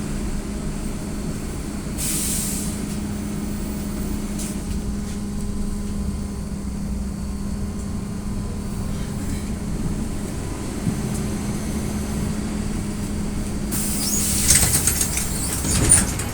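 Inside an AKSM-321 trolleybus standing at a stop: a steady low electrical hum, a short burst of pneumatic air hiss about two seconds in, and a louder hiss with clicks and knocks near the end.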